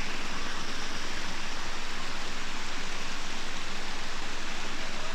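Steady rush of fast-flowing river water, an even hiss without breaks.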